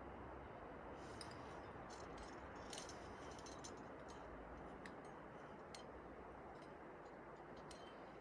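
Faint, scattered light clicks and ticks over a steady low hiss.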